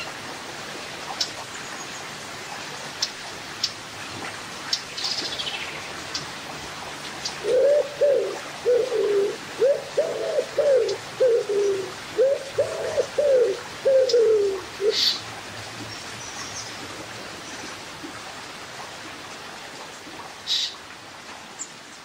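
A bird calling in a run of about a dozen low, arched notes, the loudest sound here, over the steady rush of river water running over rocks. A few short high chirps and clicks come and go.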